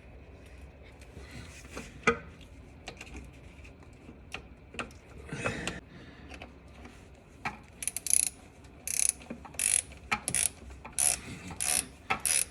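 Hand socket ratchet clicking in short strokes, about two a second through the second half, as a nut on the starter's wiring is tightened. Before that come scattered clinks of tools and metal parts.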